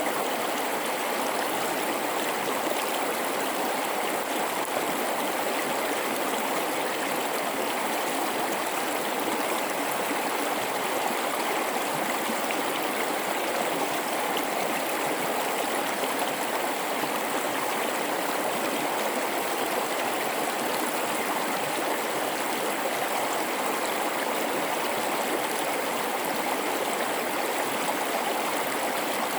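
Mountain river in a rocky gorge, water rushing and splashing over rocks in a steady, unbroken flow.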